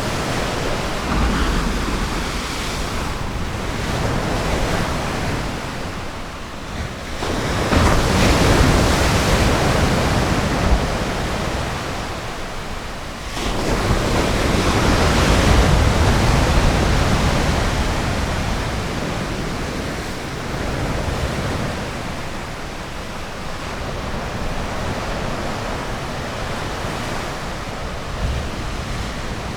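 Ocean surf on a beach, waves breaking and washing in, with two bigger swells of surge starting about seven and thirteen seconds in.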